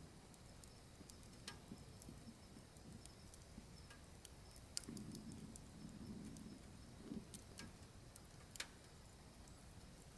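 Wood fire burning in a wood stove: faint, irregular crackles and pops over a low steady rush, with a brief low rumble partway through.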